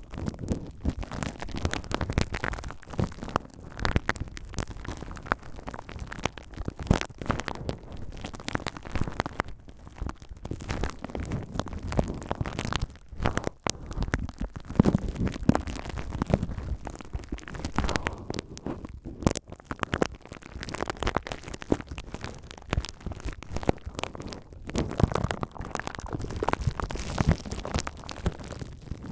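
Bubble wrap rubbed and crinkled close to the microphone: a dense, continuous run of crackles and small clicks with rustling.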